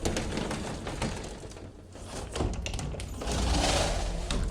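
Irregular clicks, knocks and rustling over a low rumble, growing louder about three seconds in.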